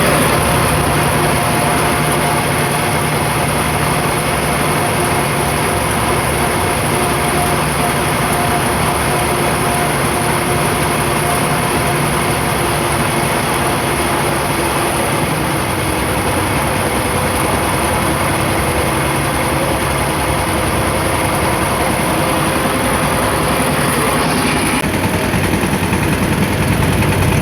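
A motor vehicle's engine running steadily with an even hum. The sound shifts slightly near the end.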